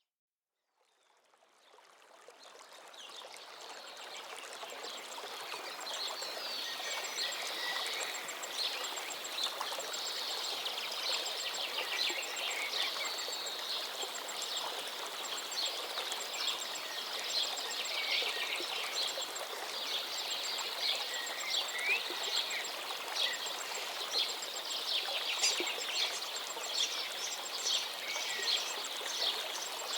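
Many small birds chirping and singing over the steady rush of a stream. The sound fades in from silence over the first few seconds.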